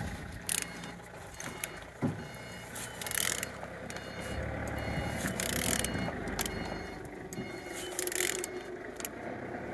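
Nissan MR20DE engine being turned over slowly by hand at the crankshaft, with a short hiss of air roughly every two and a half seconds. It turns freely, which the seller takes as compression being good on all cylinders.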